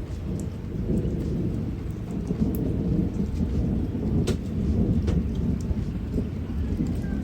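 Steady rain falling under a long, low rumble of thunder, with a few single drops ticking close by.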